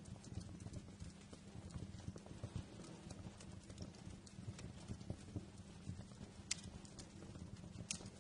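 Wood fire crackling, a steady patter of small irregular snaps and low knocks, with two sharper pops near the end.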